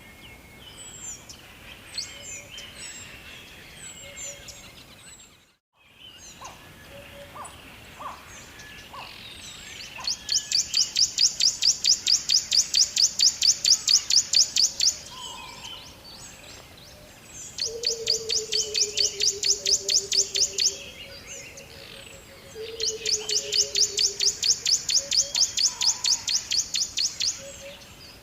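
Birds chirping, with scattered short calls and then three long bouts of a fast, high, evenly pulsed trill, each lasting a few seconds. Lower falling whistles come under the second and third bouts, and the sound drops out briefly after about five seconds.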